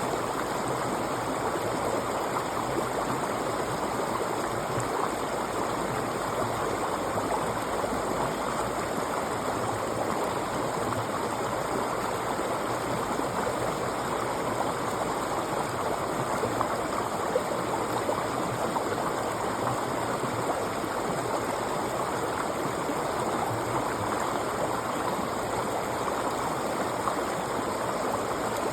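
River water flowing over rocks with a steady rushing and gurgling.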